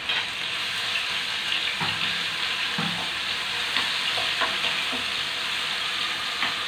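Chopped green chilies and onion sizzling steadily in a little hot sunflower oil in a frying pan, with a metal spoon stirring and clicking against the pan a few times.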